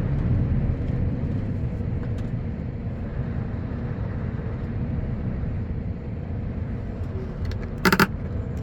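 Heavy truck's engine running steadily at low revs, heard from inside the cab, while the truck pulls away loaded with about 12 tons of sand. A short, loud clatter sounds near the end.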